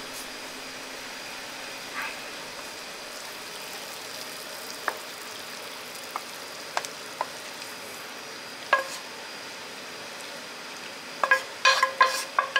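Stir-fried chicken and tofu being pushed out of a frying pan onto a porcelain plate with a wooden spatula: the hot food sizzles steadily, with scattered soft clicks. Near the end comes a quick run of knocks as the spatula scrapes and taps the pan, each with a short ring.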